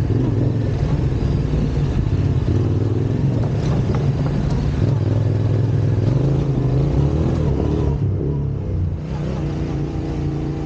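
Trail motorcycle engine running under way on a dirt track, its pitch rising and falling as the throttle is worked.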